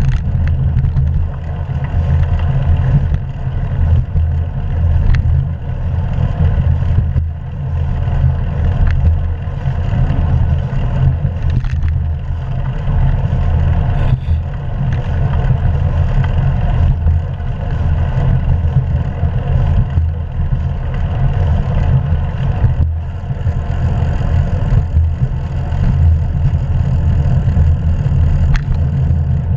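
Steady rumble of wind and road noise on a bike-mounted action camera during a bicycle ride, heaviest in the low end and without breaks.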